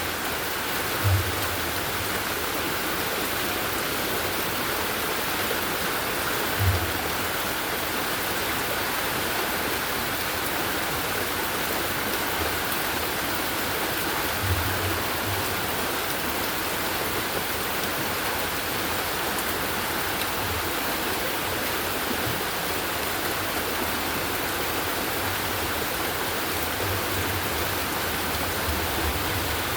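Heavy rain coming down with rushing runoff water, a steady even rush of noise. A few brief low thumps stand out, about a second in, near seven seconds and near fifteen.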